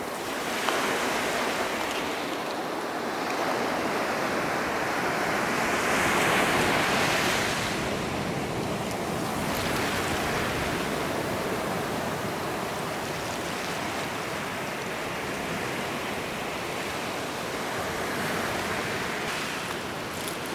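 Ocean surf breaking and washing up the beach, swelling loudest about six seconds in and again near the end.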